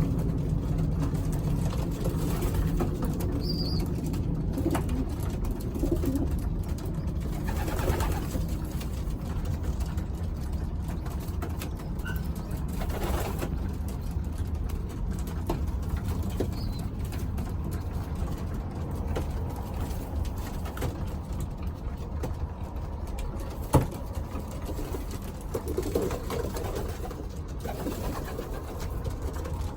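Racing pigeons cooing steadily and continuously, with a few brief high chirps and one sharp click or knock about three-quarters of the way through.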